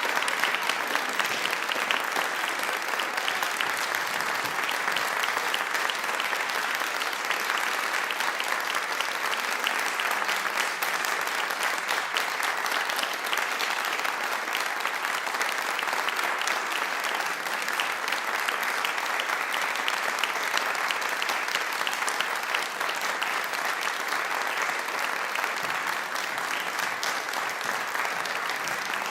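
Audience applauding: dense, steady clapping from a full crowd.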